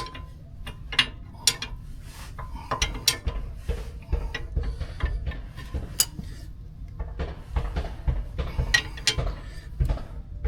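A hand wrench tightening a fastener on the steering linkage, with irregular metallic clicks and clinks of tool on steel. A steady low hum runs underneath.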